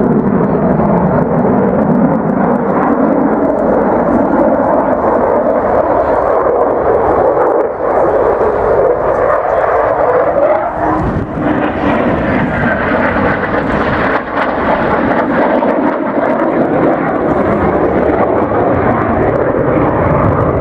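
Eurofighter Typhoon fast jet flying a display pass, its jet engine noise loud and steady with sweeping rises and falls in pitch as it moves past; the sound grows brighter about halfway through.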